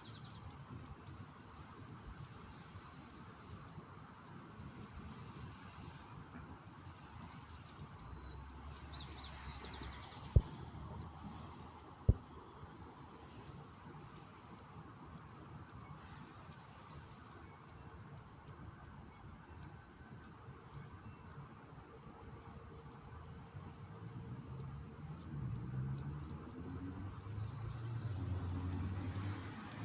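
Small birds chirping: short high chirps repeating about twice a second, with a few whistled notes. Two sharp clicks about ten and twelve seconds in.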